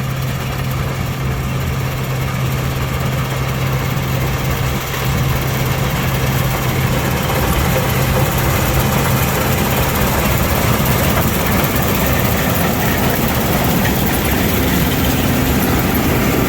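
A heavy engine running steadily with a constant low hum, getting slightly louder partway through.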